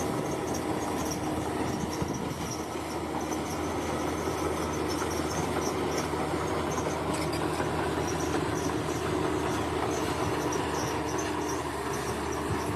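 Crawler bulldozer's diesel engine running steadily, with a constant machine drone and hum. Insects chirp in a high, repeating pattern behind it.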